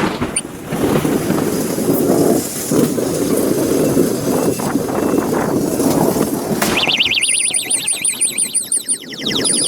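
A steady low rushing noise, then about seven seconds in a siren starts, warbling fast at about four or five cycles a second for some two seconds.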